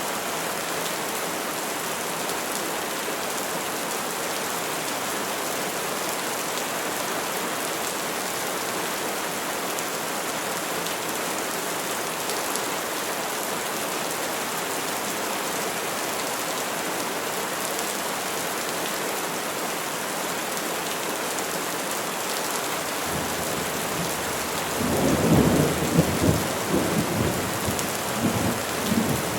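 Steady rain falling on trees. About three quarters of the way through, a low rolling rumble of thunder builds, swells in several surges and eases off near the end.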